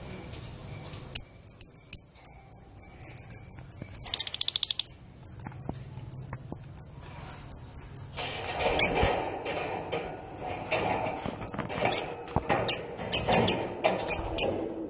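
Canary giving a rapid series of short, high chirps, with a fast trill about four seconds in. About halfway through, a rustling, clicking noise takes over.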